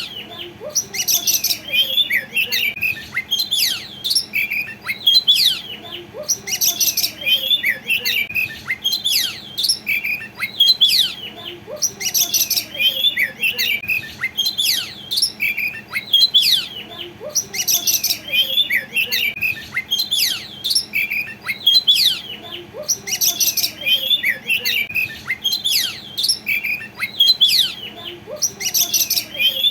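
Oriental magpie-robin singing continuously: rapid strings of whistled, chirping notes in phrases that repeat every couple of seconds, with a sharper, higher burst every five or six seconds.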